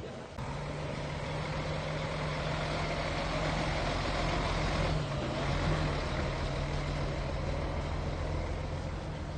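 Heavy diesel earthmoving machinery running: a steady low engine drone with mechanical noise over it that swells between about two and six seconds in.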